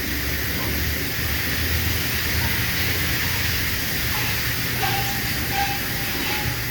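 Southern Pride Turbo automatic car wash running: a steady hiss of spraying water over a low machine hum, with a faint high whine coming in about five seconds in.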